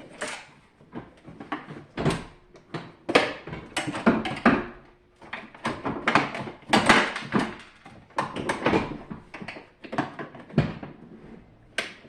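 Parts of a SilverCrest SLE 450 A1 dehumidifier being handled while it is taken apart: irregular knocks, clicks and scrapes, several a second at times.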